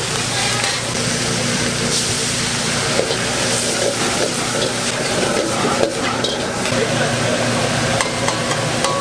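Food sizzling and being stirred in a hot wok, with a steady frying hiss and a few light clicks.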